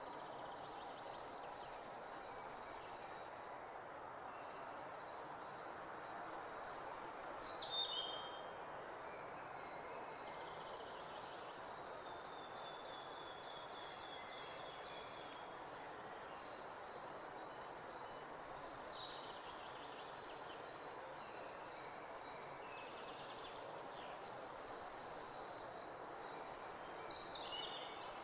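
Birds singing in short high phrases over steady background noise, with a quick run of falling notes about seven seconds in and again near the end.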